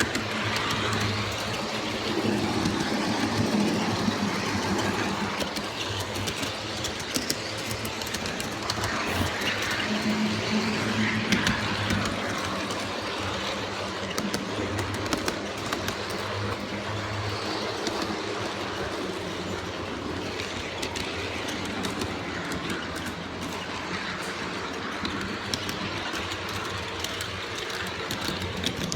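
G scale model diesel locomotive running on garden railway track: a steady rolling noise with frequent small clicks of the wheels over the rail, and a low hum that comes and goes.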